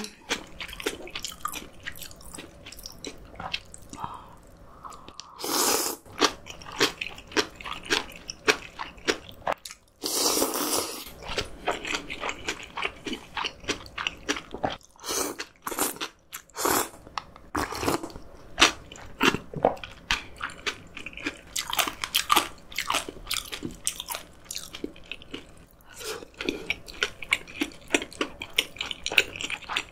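Close-miked eating: steady chewing with many short crunches and smacks as a person eats cold soybean noodles with fresh kimchi. Two longer rushing sounds come about five and ten seconds in.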